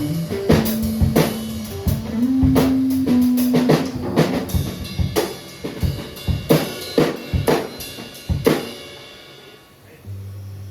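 Live band playing: drum kit hits over held bass notes, which stop about nine seconds in. A single low bass note sounds briefly near the end.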